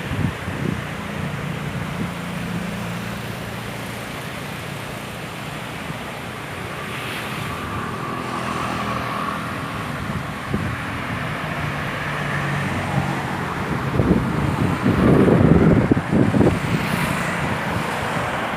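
Sea surf washing on the shore, with wind on the microphone and a low motor hum from a passing vehicle. It grows louder near the end.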